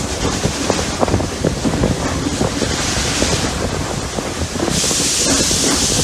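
Steam-hauled train under way: a low rumbling and clattering of the running train, with a rushing hiss that turns much louder and steady about five seconds in.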